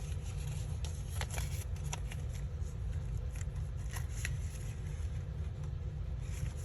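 Paper and cardstock being handled and slid into place: scattered light rustles and a few crisp paper clicks over a steady low hum.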